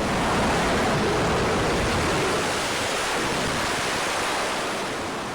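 A loud, steady rushing noise that swells in, holds, and slowly eases off toward the end.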